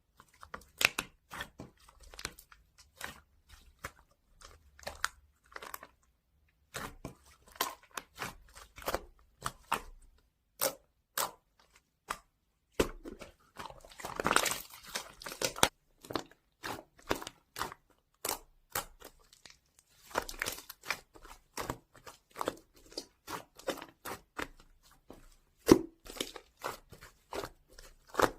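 Irregular handling noises: many short crinkles, crackles and taps, with a longer crackling, tearing stretch about fourteen seconds in.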